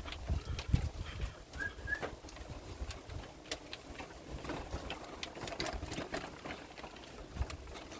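Irregular clattering, clicks and knocks, with a short two-note bird chirp about one and a half seconds in.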